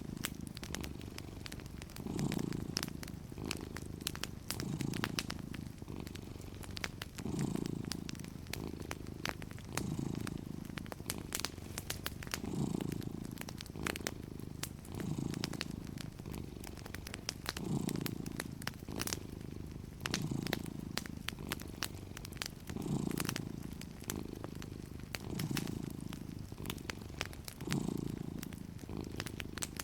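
A domestic cat purring steadily, the purr swelling with each breath about every two and a half seconds, over the light snapping crackle of a wood fire in a fireplace.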